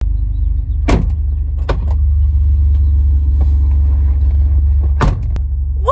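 Jeep Wrangler's engine idling, a steady low rumble heard from inside the cab, with a few knocks and clunks as the driver's door opens and someone climbs into the seat, the loudest about a second in and again near the end.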